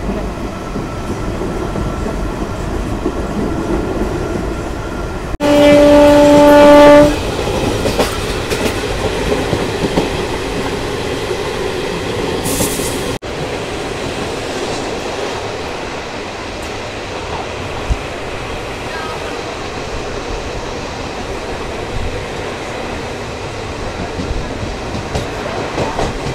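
Local passenger train running on rails, heard from an open coach window, with wheels clicking over the track. About five seconds in, a train horn sounds one loud blast of under two seconds, the loudest sound here; later the running noise eases a little as the train comes into a station.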